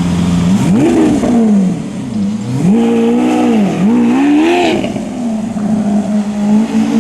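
Lamborghini Aventador's V12 revved in three throttle blips, the middle one held longer, its pitch rising and falling each time before settling to a steady idle.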